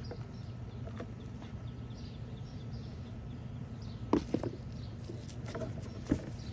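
A few short knocks and scrapes from hands digging through soil in a deep bucket: one about a second in, two close together about four seconds in, and one near the end. Faint bird chirps repeat in the background over a steady low hum.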